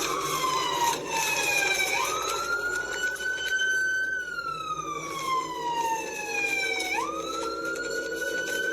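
Police car siren on a slow wail: the pitch jumps up quickly, climbs a little more, then falls slowly over about five seconds, and the cycle starts again about two seconds in and near the end.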